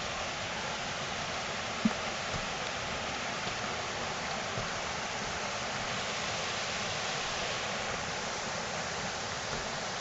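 Steady rushing of flowing creek water, with a single short knock about two seconds in.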